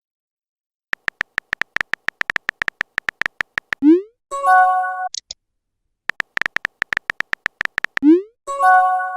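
Phone keyboard typing clicks run for about three seconds, then a short rising whoosh as the message is sent, then a brief chime-like message tone. The whole sequence plays twice.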